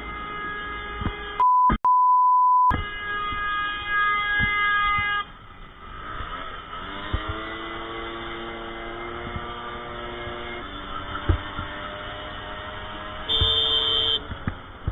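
A car horn sounds in long steady blasts, cut by a one-second pure censor bleep tone about a second and a half in. After that an engine speeds up with a rising pitch and holds steady for a few seconds, and near the end the horn sounds briefly once more.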